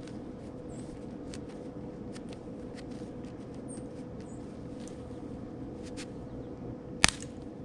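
Wire leads being fished through a heat pump's condenser unit: scattered light ticks and rustles over a steady background hum, with one sharp click about seven seconds in.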